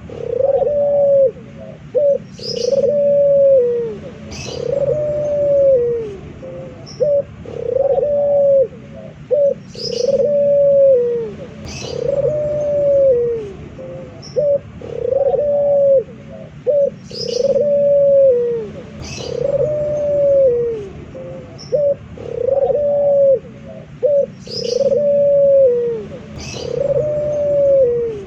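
A male puter (domestic Barbary dove) cooing over and over, one arching coo about every two seconds. Short high chirps sound between the coos.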